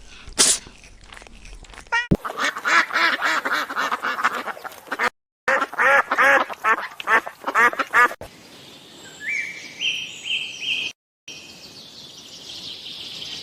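Ducks quacking in quick runs, in two clips split by a short break. From about two-thirds of the way in, high chirping calls step upward in pitch.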